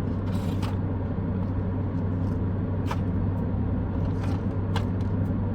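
Steady low rumble inside a car's cabin, with a few brief faint clicks.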